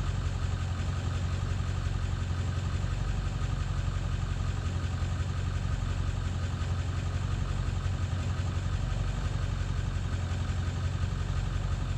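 Ford 7.3 L Power Stroke turbo-diesel V8 idling with a steady low hum. It is running rough, a fault that a newly replaced injection control pressure (ICP) sensor has not cured.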